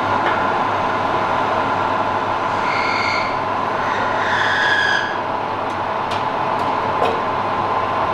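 A machine running with a steady noise, with two short high squeals about three and four and a half seconds in and a few light ticks near the end.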